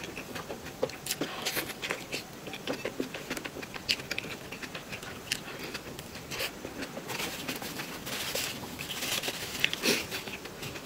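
Close-miked chewing and wet mouth sounds of eating a soft, sticky snow skin mochi (xuemeiniang) filled with cream and fruit: many small smacks and clicks as it is bitten and chewed.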